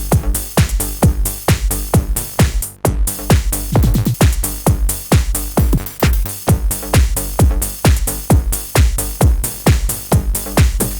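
Electronic tech house pattern playing from a Korg Electribe Sampler ES2 groovebox: a steady kick-drum beat of thumps that drop in pitch, with bright percussion hits and bass, briefly dropping out about three seconds in.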